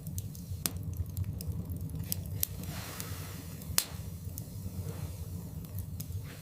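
Wood fire burning in a fireplace: scattered sharp crackles and pops from the logs over a steady low rumble of the flames. One pop about four seconds in stands out as the loudest.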